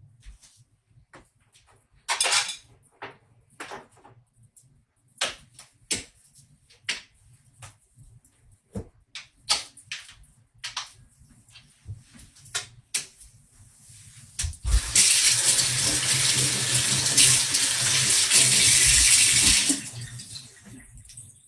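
Scattered clicks and knocks of household items being handled, then a water tap runs into a sink for about five seconds and is turned off.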